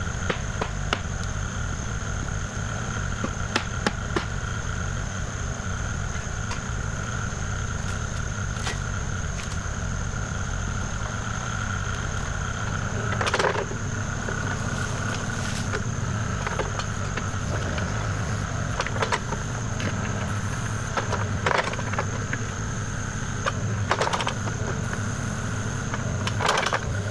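Kubota KX040 compact excavator's diesel engine running steadily, with a steady high whine over the low rumble. Scattered short knocks and clanks, the loudest about halfway through.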